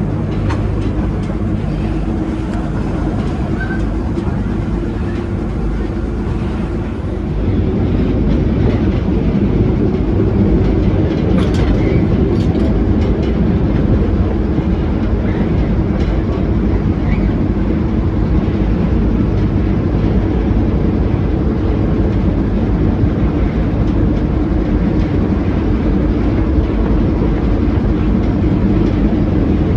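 A diesel-hauled heritage passenger train running along the track: a steady rumble of wheels on rail that grows louder about seven seconds in, with a few sharp clicks a little later.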